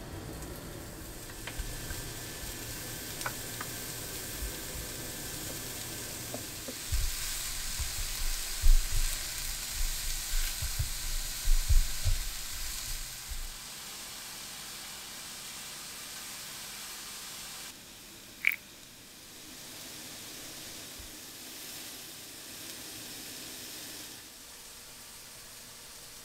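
Deodeok root slices sizzling as they pan-fry in a ceramic-coated frying pan over medium-low heat. Knocks and bumps from handling come through the middle. About two-thirds of the way in there is a single sharp clink.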